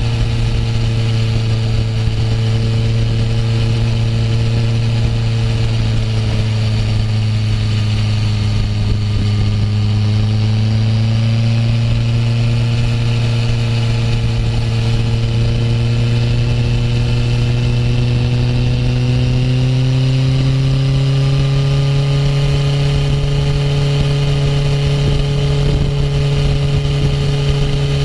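Honda CB650F's inline-four engine running steadily under way at a constant cruising speed. Its pitch rises a little about a third of the way in and again about two-thirds in.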